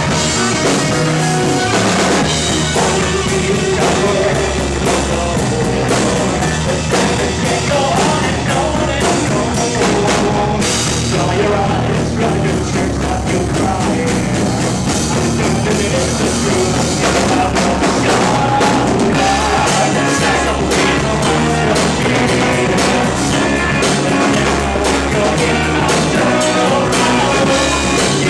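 A rock band playing live, with drum kit, guitars and singing, loud and steady throughout.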